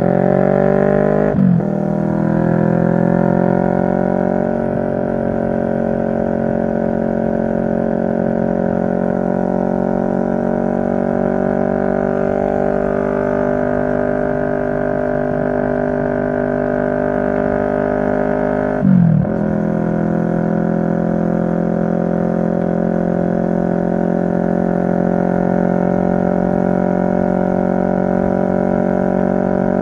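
CFMoto 650NK's parallel-twin engine running steadily at cruise, with a low rumble underneath. The engine note breaks off briefly and changes pitch about a second and a half in and again about two-thirds of the way through, as at a gear change.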